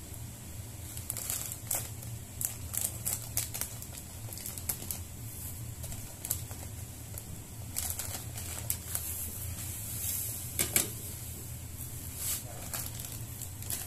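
Plastic bag of breadcrumbs crinkling and crackling as the crumbs are shaken out onto a plate: irregular sharp crackles, the loudest about eleven seconds in, over a steady low hum.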